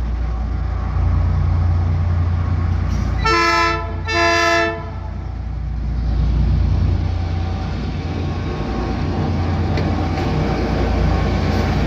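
Diesel freight locomotives, an ALCo RSD16 and an EMD GR-12W, running with a steady low rumble. A little over three seconds in, the locomotive horn sounds two short blasts of a multi-note chord.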